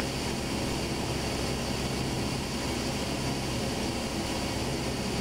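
Steady drone of a light propeller airplane's engine heard inside the cockpit, even and unchanging.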